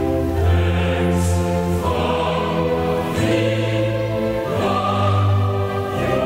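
Slow choral music with long held chords that change every second or two.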